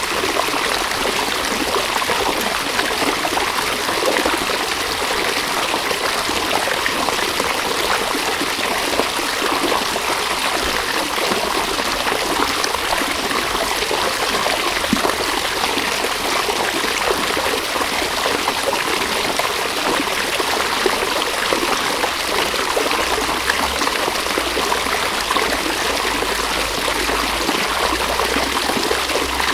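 River water running over stones, a steady rushing and trickling.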